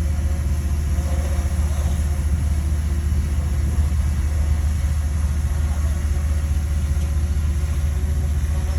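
Bulldozer's diesel engine running steadily at a low, even speed.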